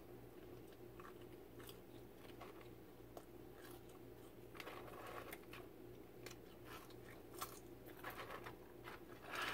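Faint close-up chewing of a chicken nugget, with soft wet mouth clicks and smacks now and then.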